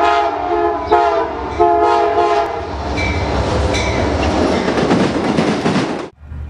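Amtrak GE Genesis P42DC diesel locomotive's air horn sounding a chord of several tones in three blasts, the last ending about two and a half seconds in. Then the loud rumble and rush of the train passing close by, with wheel clatter, cut off suddenly about six seconds in.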